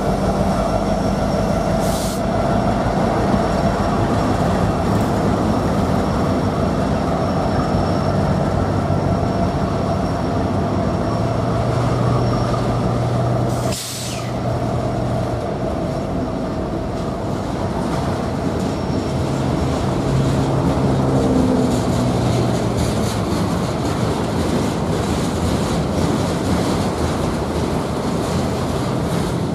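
Freight train rolling through a grade crossing: diesel locomotives pass first, then autorack cars, with wheels rumbling on the rails and steady high wheel squeal tones.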